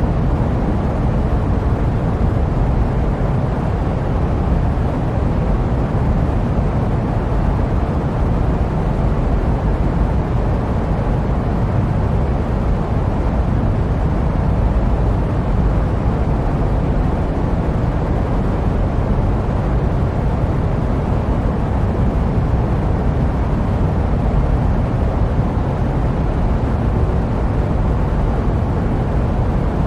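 Steady jet aircraft noise used as white noise: an even low rumble with hiss on top, unchanging throughout.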